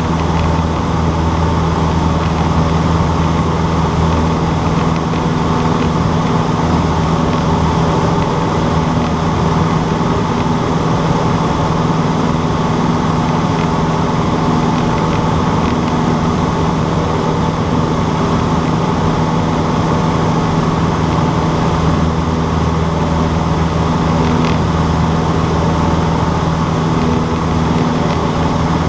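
Cessna 152's four-cylinder Lycoming engine and propeller running steadily as a loud, even drone at constant power.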